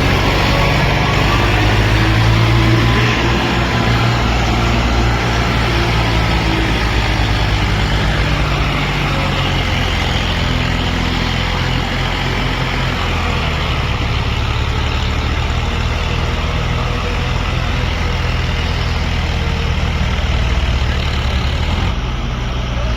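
Swaraj 855 tractor's three-cylinder diesel engine running steadily, its sound changing slightly near the end.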